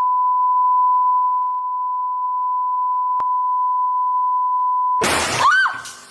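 A steady electronic beep, one pure tone held for about five seconds, like a censor bleep, with a faint click near the middle. About five seconds in it cuts off into a loud burst of noise, followed by a short squeal that rises and falls.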